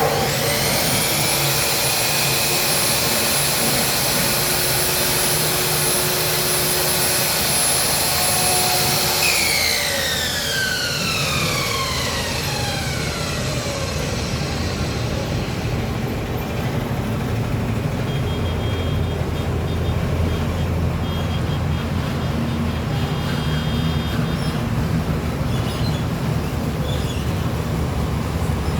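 Ferm MSM1040 sliding mitre saw's motor switched on, whining up to speed within a second and running steadily for about nine seconds. It is then switched off and winds down with a falling whine over about four seconds, leaving a steady background noise.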